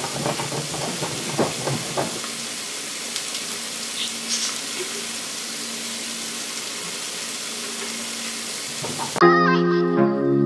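Steady sizzle of food frying on a gas stove. About nine seconds in, background music cuts in abruptly.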